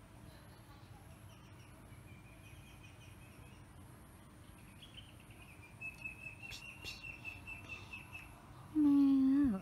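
Small birds chirping and trilling faintly in the background, with a steady high trill for about two seconds past the middle. Near the end comes a loud, brief pitched cry that drops in pitch as it stops.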